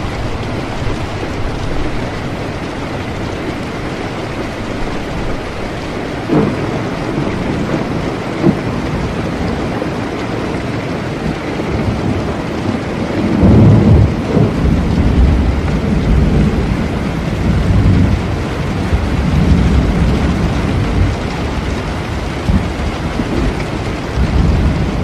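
Steady rain with a thunderstorm: two short sharp cracks of thunder, then a long low rumble of thunder that starts about halfway through, is loudest at its start, and swells and eases for several seconds.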